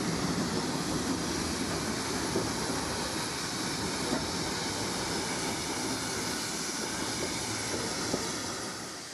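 Steady rumble and rush of a railway carriage in motion, its wheels running on the rails, with a few faint clicks.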